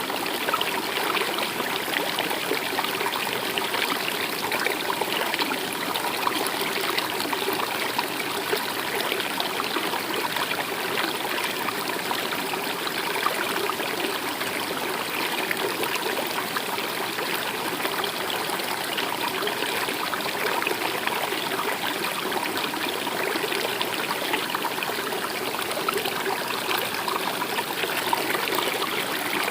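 A stream running steadily with a trickling, splashing flow.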